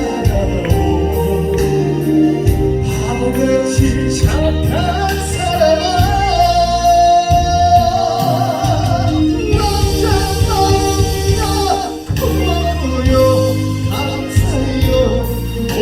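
A song sung over a backing track with a steady bass beat; the singer holds one long note around the middle.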